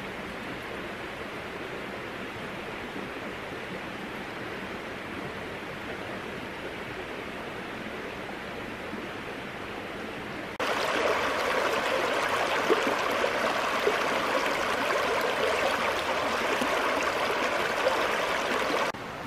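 Steady rushing of a flowing stream. About ten seconds in it jumps abruptly louder and fuller, and drops back just before the end.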